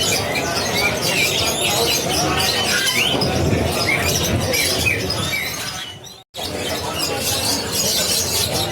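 Many caged songbirds chirping and whistling together over steady background noise; the sound cuts out briefly about six seconds in.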